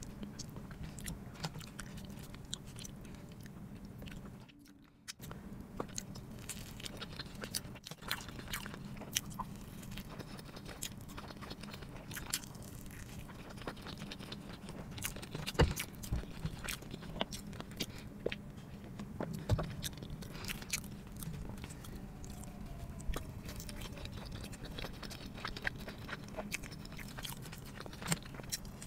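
Close-miked chewing and biting of food, with many sharp mouth clicks throughout and a short drop-out about five seconds in.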